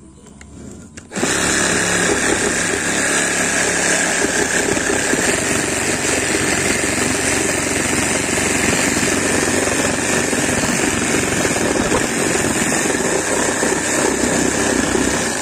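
Electric reciprocating saw cutting through wood: it starts about a second in, runs steadily under load, and cuts off just before the end.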